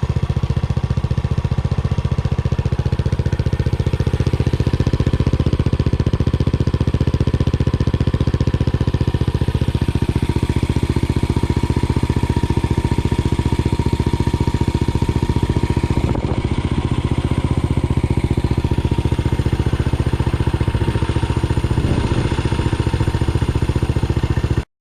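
Yamaha SR400 single-cylinder engine running steadily at an even pace, with a thin steady whine above the exhaust beat. This is the engine the owner says has an abnormal noise, which he wonders is a result of ten years' storage.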